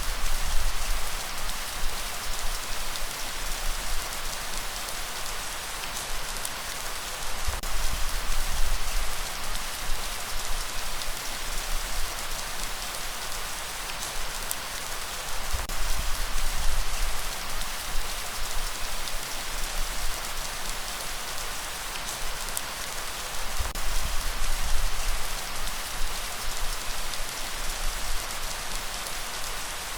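Steady light rain hissing on surfaces, with a low rumbling swell of breeze rising and fading about every seven or eight seconds.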